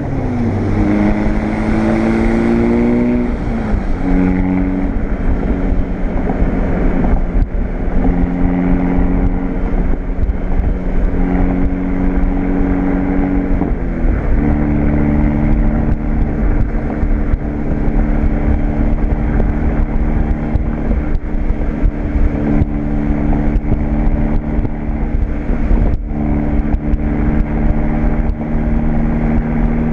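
Volkswagen GTI's turbocharged four-cylinder, fitted with an APR K04 turbo and APR turbo-back exhaust, droning while driving, with road and wind noise. Its pitch drops and steps between engine speeds over the first half, then holds a steady cruising drone.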